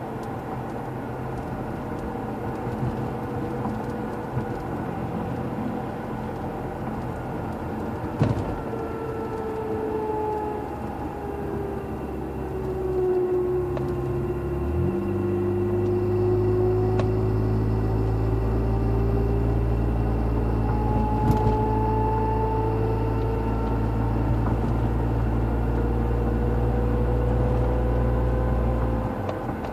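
Acura RL under way, with a whine from its failing rear differential over tyre and road rumble; the whine's pitch sinks and then climbs slowly as road speed changes. About halfway through a deeper steady drone joins in.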